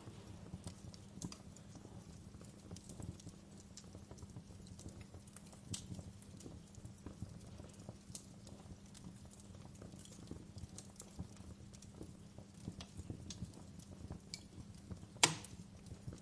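Wood fire crackling in a fireplace: irregular small snaps and pops, with one loud sharp pop near the end.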